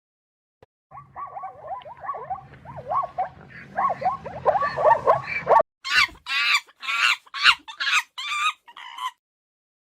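Pigs squealing: a quick run of short squeals over a low hum, then, after an abrupt change about halfway through, a series of about eight louder, separate squeals.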